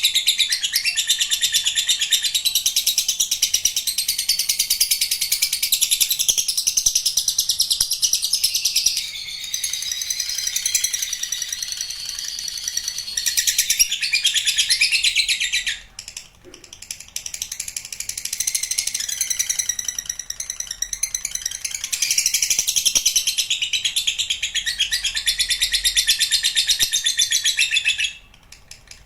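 Lovebird singing its long 'ngekek': a rapid, unbroken, high-pitched chattering trill. It runs for about sixteen seconds, breaks off briefly, then resumes for about another eleven seconds before stopping near the end.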